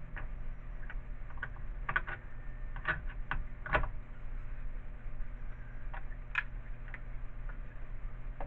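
Scattered light clicks and taps from handling small nails and plastic shovel parts during a repair, over a steady low hum.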